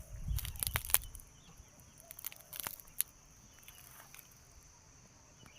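A steady high-pitched insect drone in a rural garden, with bursts of crackling clicks in the first second and again around two to three seconds in.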